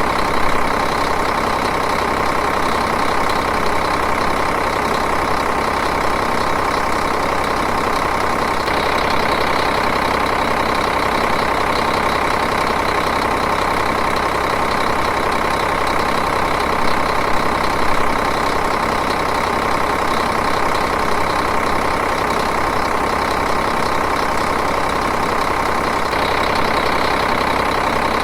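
Diesel engine idling steadily with an even, rhythmic clatter.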